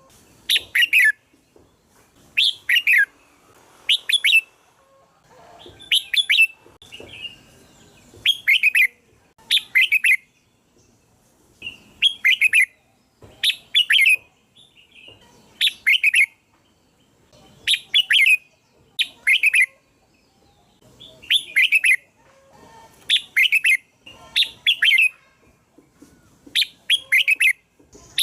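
Red-whiskered bulbul song: short, bright phrases of two or three quick downward-sweeping notes, repeated about every one and a half to two seconds.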